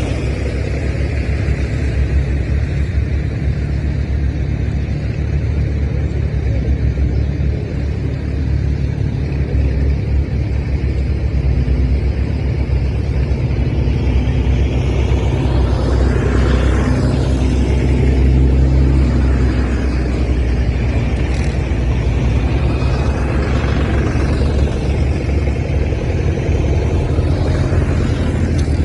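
Tractor engine running steadily, with a loud low rumble that holds throughout.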